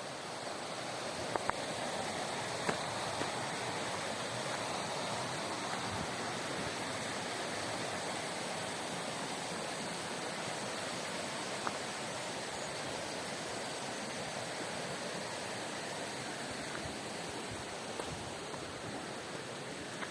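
Rushing water of a river, a steady hiss, with a few faint clicks in the first three seconds and one more near the middle.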